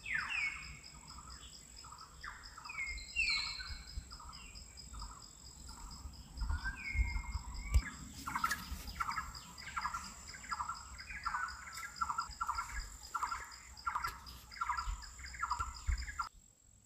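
Birds calling: short whistled notes sliding downward, then from about halfway a quick run of repeated calls, roughly two a second, over a steady high pulsing tone.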